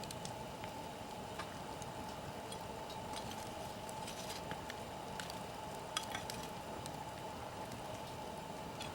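Wood campfire burning with a steady hiss and scattered crackles and pops, the sharpest pop about six seconds in.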